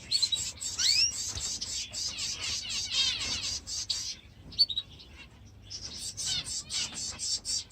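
Aviary birds chirping and chattering in rapid runs of short high notes, with a brief lull about halfway through before the chatter starts again.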